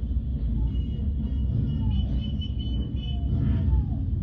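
Steady low rumble of many motorcycles riding past in a long procession, with faint higher tones and short falling glides over it.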